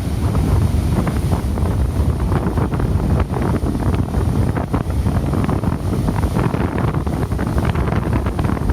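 Strong wind buffeting the microphone in a steady, rough rumble, over rough sea with big waves ahead of an approaching typhoon.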